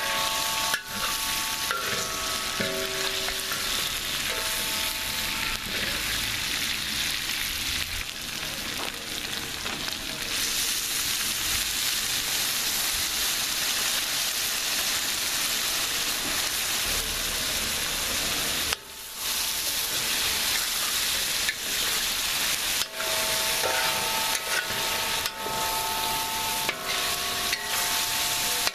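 Meat and vegetables sizzling in a steel plow-disc pan (discada) over a propane burner, with a metal spatula scraping and clacking against the disc as they are stirred. The sizzle thickens about a third of the way in, and near the start and again near the end the scraping draws short ringing tones from the steel.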